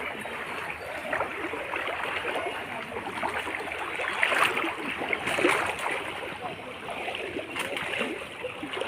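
Floodwater flowing and splashing steadily, with louder splashes about four and a half and five and a half seconds in.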